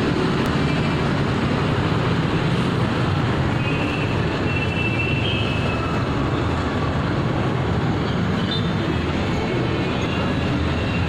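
Steady vehicle running noise with a constant low rumble and no change in level.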